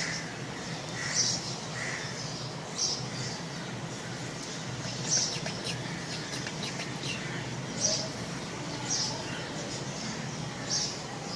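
Budgerigars giving short, high chirping calls, about one every second or so, over a low steady hum.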